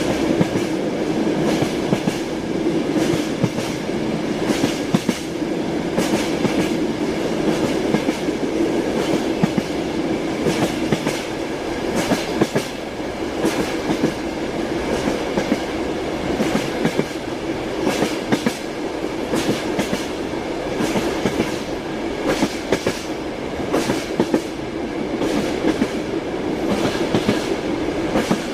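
Train wheels clacking over rail joints in repeated clusters of knocks, over the steady rumble of a moving train.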